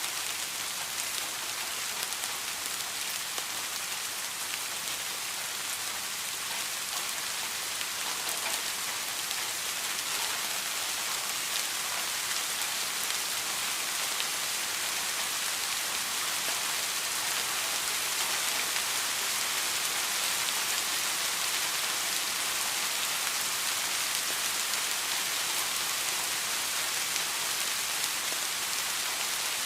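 Steady rain falling, an even hiss of many drops hitting a surface, with faint scattered patters and no thunder. It swells slightly in the second half.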